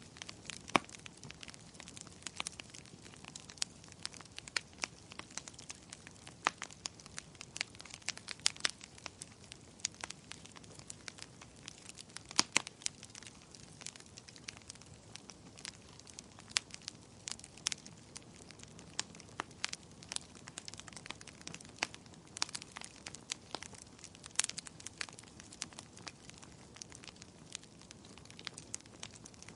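Wood fire crackling, with irregular sharp pops and snaps over a soft, steady hiss.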